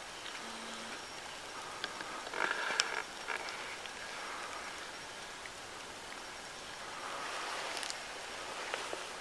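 Steady patter of light rain. About two and a half seconds in there is a short rustle ending in a sharp click.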